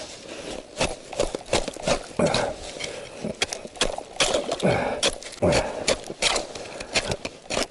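Ice chisel chipping at the edge of an ice-fishing hole to widen it so a hooked burbot can come through, sharp strikes on ice at an irregular pace of about two a second.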